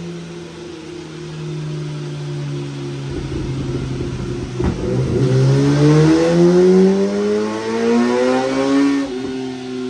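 Sport bike's inline-four engine on a chassis dyno, running at a steady speed, then revving up steadily for about four seconds in a pull before the revs drop suddenly near the end.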